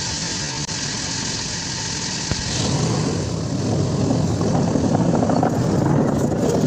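Kobelco SK330 excavator's diesel engine running steadily, growing louder about two and a half seconds in.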